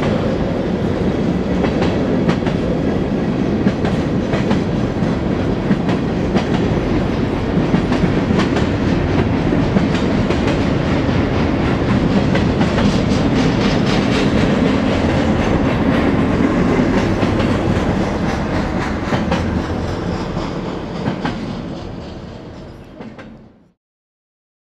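Freight train of boxcars and double-stack container cars rolling past: a steady rumble with wheels clicking over the rails, fading out near the end.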